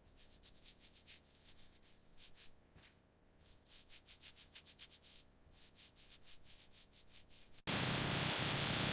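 Faint, quick rubbing or brushing strokes, several a second, coming in short runs. Near the end they cut off abruptly, replaced by a loud, steady hiss.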